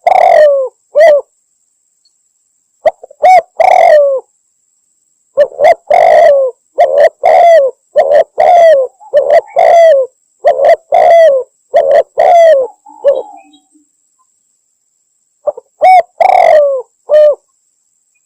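Spotted dove (tekukur) cooing in repeated phrases, a lure recording of a female calling to a male. Phrases come in groups with pauses between them, the longest run lasting about eight seconds midway.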